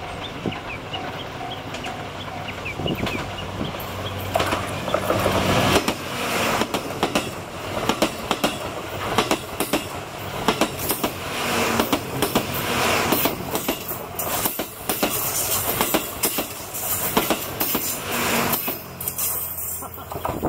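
The JR West 87 series Twilight Express Mizukaze passing close by, its wheels clicking repeatedly over the rail joints over a low steady hum. The sound builds a few seconds in and dies away near the end.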